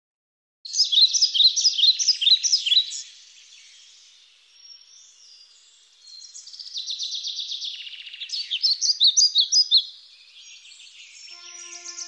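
Songbirds singing: a loud run of quick repeated chirping notes starting about a second in, softer fast trills in the middle, and another loud run of chirps around nine seconds in.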